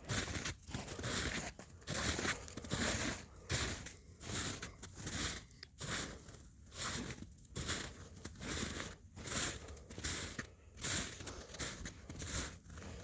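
Footsteps crunching through snow at a steady walking pace, a little more than one step a second.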